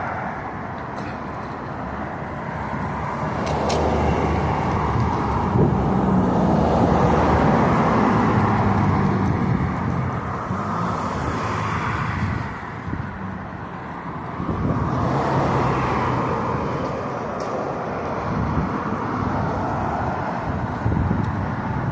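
Road traffic noise, a rushing hiss and rumble that swells and fades as vehicles pass.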